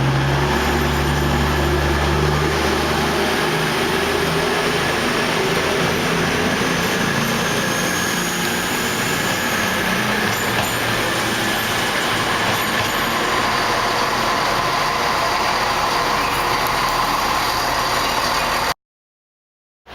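Passenger train running: a loud, steady rumble and rush, with a low engine hum in the first few seconds and faint slowly shifting tones. It cuts off abruptly about a second before the end.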